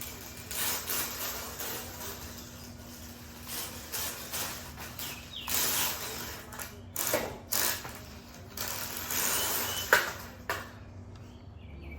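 Electric drivetrain of an FMS Smasher 1/24 mini monster truck with a speed motor, running in uneven spurts with a ratchet-like clatter: the stock plastic spur gear is having its teeth stripped. The noise dies down shortly before the end.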